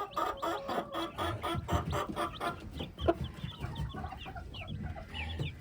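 Young hens clucking in a rapid, even run of about four to five clucks a second through the first half, then short, high chirps and peeps, with a sharp click about three seconds in.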